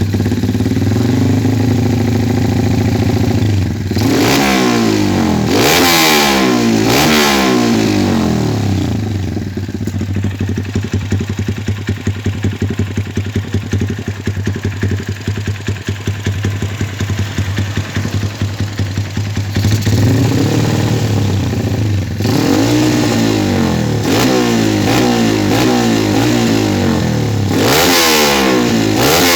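A bored-up 165cc Yamaha Jupiter MX single-cylinder four-stroke engine running through a CLD oval aftermarket exhaust. It idles, is revved in several quick throttle blips about four seconds in, and settles back to an even idle for about ten seconds. From about twenty seconds in it is revved repeatedly again.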